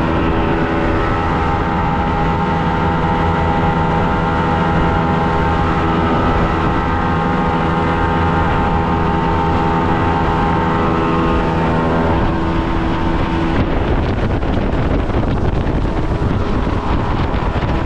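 Motorboat running under way: a steady engine drone over wind and water rush. About 13 seconds in, the engine tone drops away and only the rush of wind and water is left.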